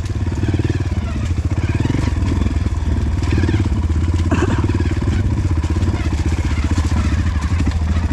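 Honda CRF150L trail bike's single-cylinder four-stroke engine running at a steady pace as it is ridden along a dirt track.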